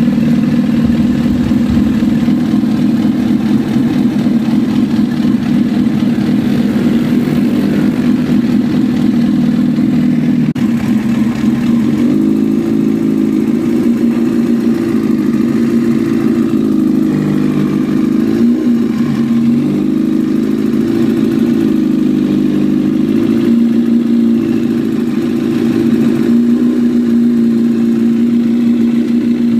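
2004 Honda CBR1000RR inline-four engine running, steady for a while, then revved up and down a few times from about twelve seconds in. The owner hears an unidentified ticking noise from the engine whenever he throttles up.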